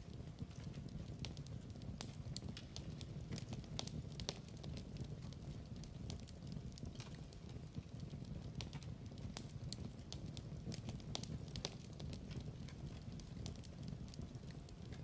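Wood fire burning in a fireplace: a steady low rumble of flames with many irregular crackles and pops.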